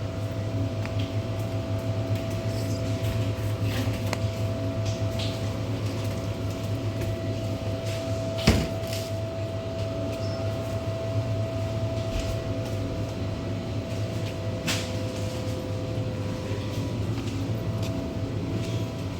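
Steady low machine hum with a faint held tone through it, and one sharp knock about eight and a half seconds in.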